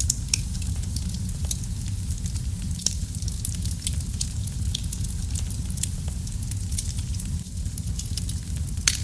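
Wood fire burning in a fireplace: a steady low rumble of flames with frequent sharp crackles and pops, one louder pop near the end.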